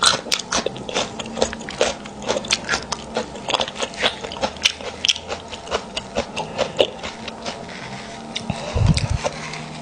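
Close-miked wet chewing and mouth smacks from eating a sauce-covered beef marrow bone, a stream of sharp clicks several times a second. A low thump comes about nine seconds in.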